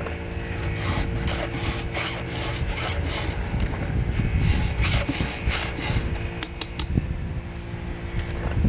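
Hand file scraping across the cutter teeth of a 36-inch chainsaw chain during sharpening, in repeated strokes about twice a second, over a steady low hum.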